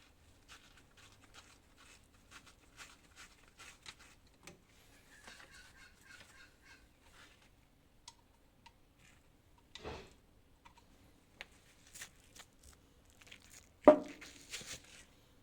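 Hand tools at work on a car's underside: a run of light, irregular clicks and taps, a knock about ten seconds in, and a sharp clack near the end.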